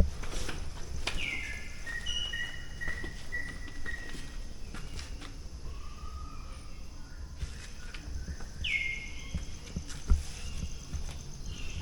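Birds calling: a call that sweeps downward, heard twice, about a second in and again near the end, with a short run of evenly repeated chirps between them, over scattered light footsteps.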